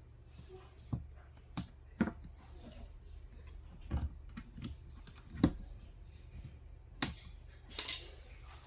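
Scattered sharp clicks and light knocks of plastic and metal dishwasher parts being handled while the water hose is reconnected, about eight in all, the loudest about halfway through.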